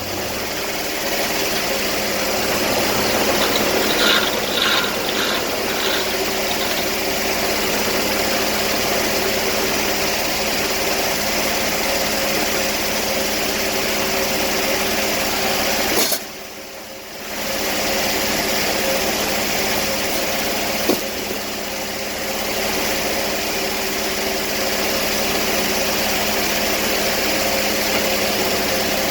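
Sawmill engine running steadily at a constant pitch, with a sudden dip in loudness for about a second and a half past the middle and a single sharp click a few seconds later.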